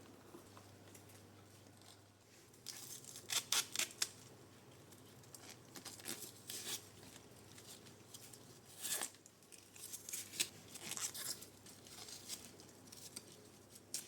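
Quiet handling sounds: short crisp snips and clicks in small clusters with pauses between.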